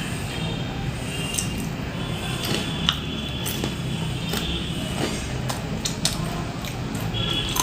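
Irregular sharp crunches of crisp fried snacks being chewed close to the microphone, over a steady low rumble.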